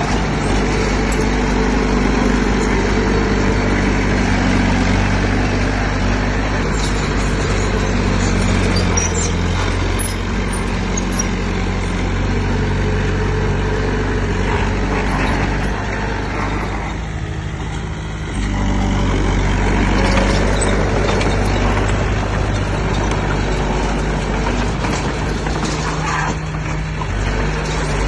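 Heavy diesel engine of earthmoving machinery running hard and steady, its pitch shifting now and then. About two-thirds of the way through it falls away briefly, then comes back at full level.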